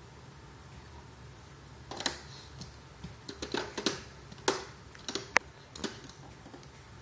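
A baby's mouth making a quick, irregular string of short clicks and smacks, bunched between about two and six seconds in.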